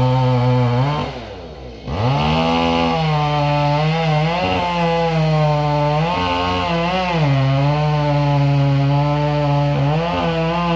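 Two-stroke chainsaw running at high revs while cutting wood, its engine pitch dipping under load and recovering several times. About a second in, the revs and loudness drop sharply for under a second before the saw revs back up.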